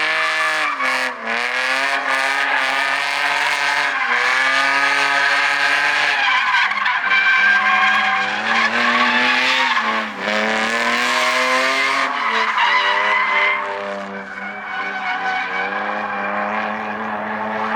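BMW E46 coupe drift car drifting: its engine revs hard, the pitch dropping and climbing again several times, over the continuous hiss of skidding, squealing tyres.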